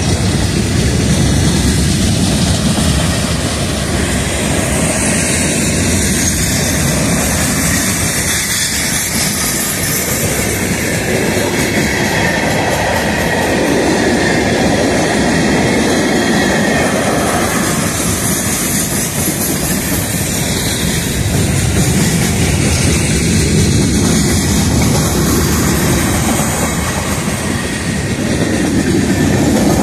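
CSX rock train's hopper cars rolling past close by: steel wheels on the rails making a steady, loud rumble.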